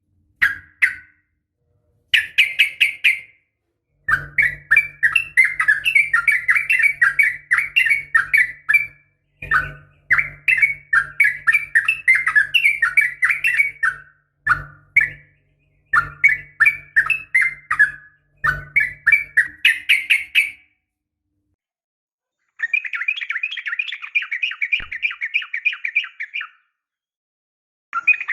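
Yellow-vented bulbul (trucukan) giving rapid chattering calls, quick repeated notes in runs of one to five seconds separated by short silent gaps. A faint low hum sits under several of the runs.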